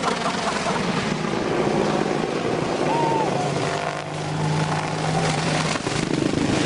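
Aircraft engine running loudly, a steady rush of noise with a low hum that strengthens about three and a half seconds in.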